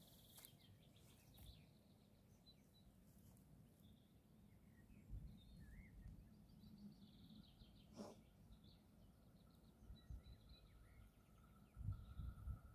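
Near silence: faint bird chirps, with a few low rumbles of wind on the microphone about five seconds in and near the end, and a single click about eight seconds in. A faint steady high tone builds up near the end.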